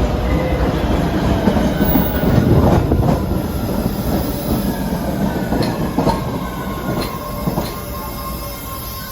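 Train running along the rails at a station: a heavy rail rumble with wheels squealing and faint whining tones that fall slightly in pitch. It gets quieter over the last few seconds.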